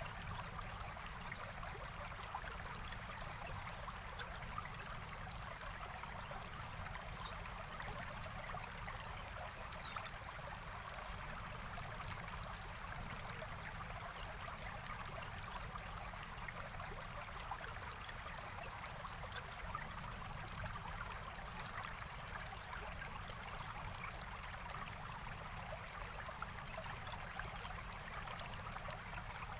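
Forest stream flowing steadily, with a few faint high bird chirps.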